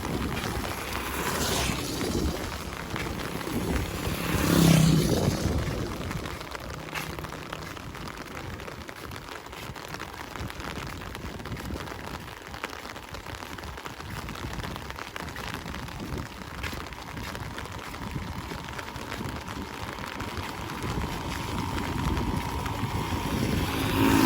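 Steady rain falling, an even hiss throughout, with one brief louder swell about five seconds in.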